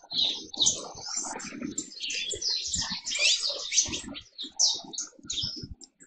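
Birds calling: a busy run of rapid, high chirps and twittering notes, with low knocks underneath.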